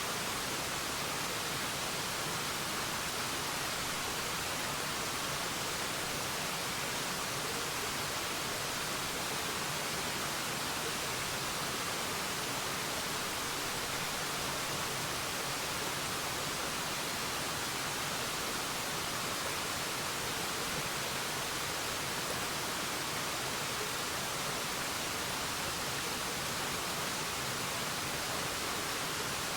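Waterfall pouring in a steady, even rush that does not change.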